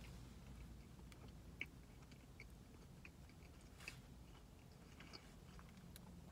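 Faint chewing of a mouthful of a Canadian bacon, egg and cheese muffin, with a few soft mouth clicks over a low steady hum.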